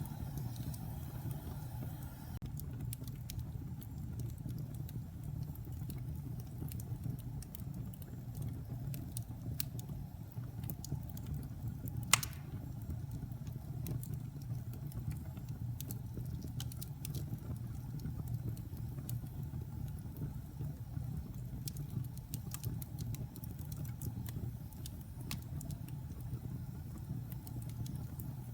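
Wood fire in a fireplace burning, with a steady low rumble and scattered small crackles, and one sharp pop about twelve seconds in.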